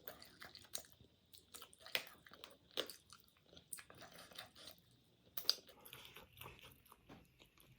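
Close-up eating sounds: a person biting and chewing food, with irregular crisp crunches and wet mouth clicks.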